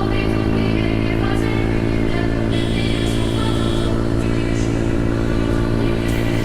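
Yamaha R6 inline-four sport bike engine with an Akrapovič aftermarket exhaust, running steadily at a constant engine speed.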